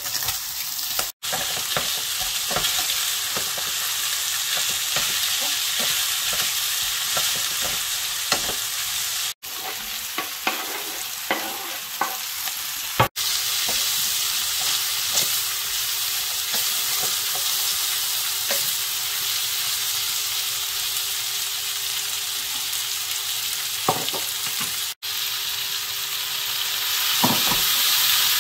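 Chicken, onion, red pepper and courgette sizzling in a hot non-stick frying pan while a wooden spatula stirs them, with scattered clicks and scrapes of the spatula against the pan. The sizzle is steady and high, cutting out briefly a few times.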